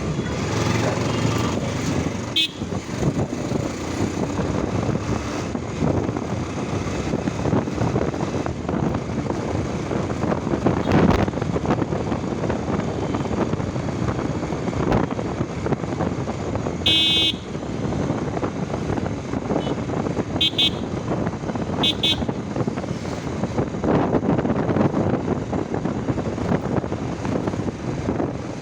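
Steady wind and road noise of a motorcycle ride on traffic-filled roads, with vehicle horns sounding: a brief toot about two seconds in, a longer honk about two-thirds of the way through, and two short double beeps soon after.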